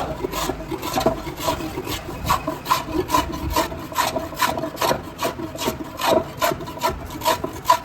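A hand tool rasping or scraping a wooden cricket bat in quick, short strokes, about three a second.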